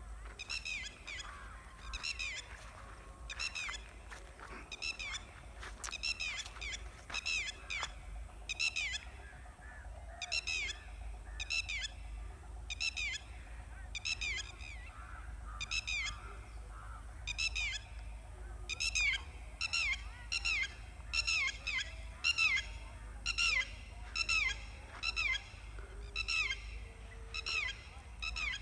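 A bird calling over and over in short falling notes, about one a second, coming faster in the second half, over a steady low rumble.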